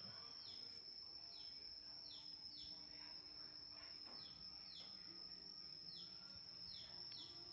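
Faint ambient sound: a bird's short, falling chirps repeated at irregular intervals, about a dozen times, over a steady high-pitched whine.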